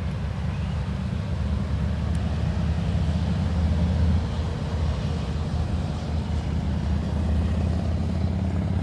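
Diesel-electric locomotives running with a steady low rumble.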